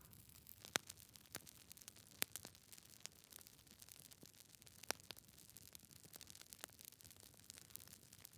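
Wood fire burning in a fireplace: logs crackling, with irregular sharp pops over a faint hiss, the loudest about a second in, two seconds in and near five seconds in.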